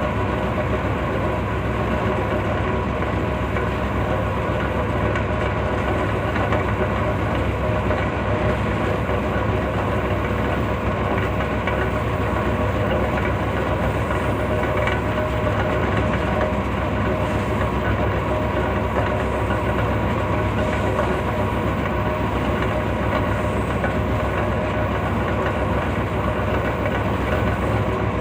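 Green Line Express passenger train running at a steady speed: a continuous rumble with a faint hum that does not change.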